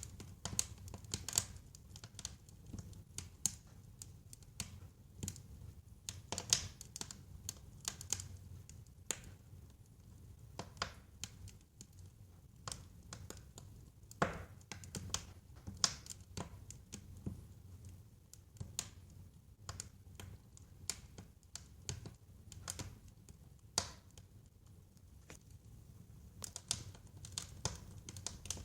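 Wood fire in a fireplace crackling: a constant run of irregular small crackles and sharper pops from the burning logs, over a low steady rumble of the flames.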